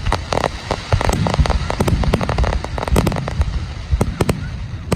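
Fireworks display: a rapid barrage of sharp bangs and crackling bursts, many per second, over a low rumble.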